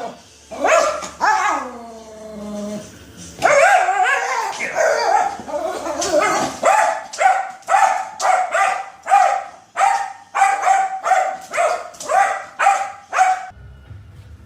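A dog calling out loudly: a few long calls that fall in pitch, then a steady run of short barks, about two a second, that stops suddenly near the end.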